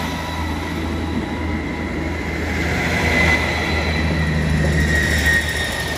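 ScotRail Class 158 diesel multiple unit passing at close range, its underfloor diesel engines humming and wheels running over the rails, with a steady high whine.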